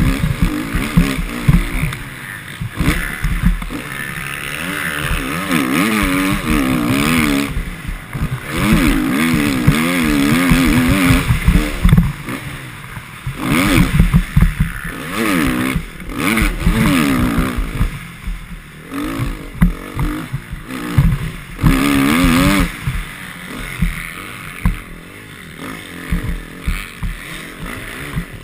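Motocross motorcycle engine revving hard and easing off again and again, its pitch rising and falling with each burst of throttle, over rough rushing noise and clatter.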